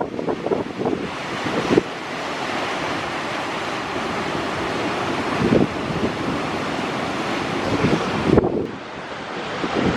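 Storm surf washing and breaking in a steady roar, with wind gusting across the microphone in buffeting blasts near the start, about halfway through and near the end.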